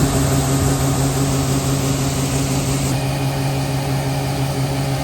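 A large engine running steadily at a constant speed, an even hum with a steady low tone.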